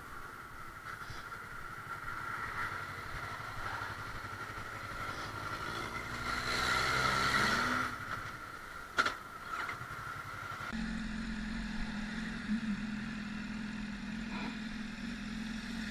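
Motorcycle engine running steadily, with a sharp click about nine seconds in. About eleven seconds in, the sound cuts to a different, lower and steady engine drone.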